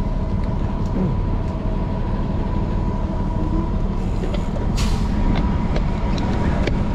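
Strong wind buffeting the microphone as a bicycle rides through city traffic, a steady low rumble with vehicles running underneath. About five seconds in there is a short sharp hiss.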